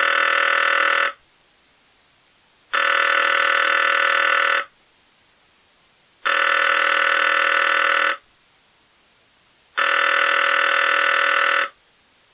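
1950 rotary telephone ringing in a repeating pattern: steady rings about two seconds long that start and stop sharply, with gaps of about a second and a half between them, four times.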